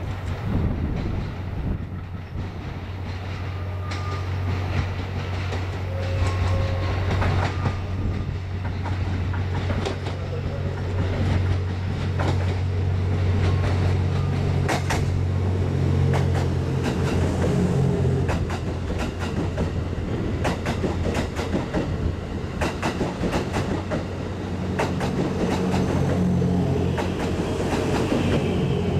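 The JR West 87 series TWILIGHT EXPRESS Mizukaze, a hybrid diesel-electric train, arriving slowly and rolling past close by. A steady low engine hum, with the wheels clicking over rail joints and points, the clicks coming thicker as the cars pass.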